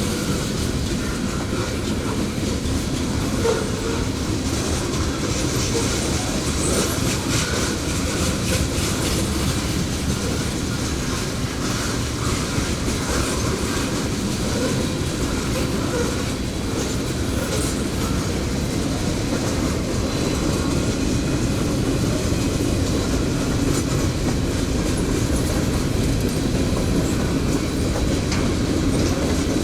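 Cars of a long freight train rolling steadily past, with the wheels clacking over the rail joints and occasional faint wheel squeal.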